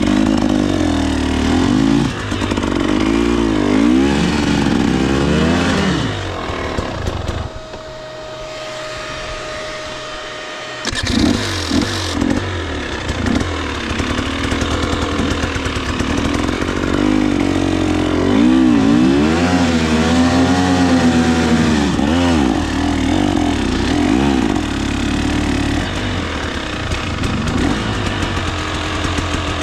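2024 KTM 300 XC-W two-stroke dirt bike engine revving up and down under constant throttle changes while ridden. The engine drops to a quieter low note for a few seconds about a third of the way in, then picks up again with a sharp loud blip.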